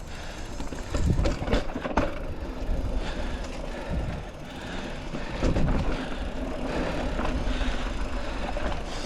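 Mountain bike being ridden over a dirt trail: tubeless tyres rolling and the bike rattling, with wind rumbling on the microphone. Sharp knocks come about one and two seconds in.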